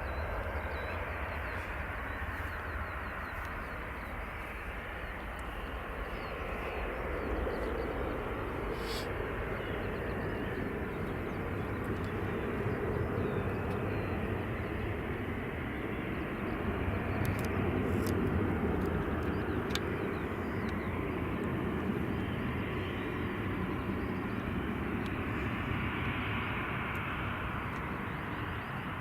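Jet airliner engines running, a steady rushing noise with a deep low end that builds to its loudest around the middle and eases off toward the end.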